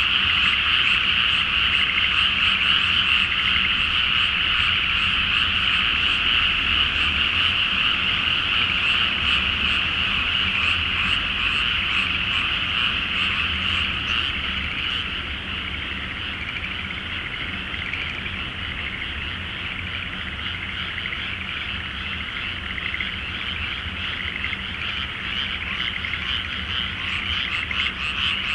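A large chorus of frogs calling in a flooded rice paddy: many overlapping, rapidly repeated croaks merging into one continuous trilling din. It eases a little past the middle and swells again near the end.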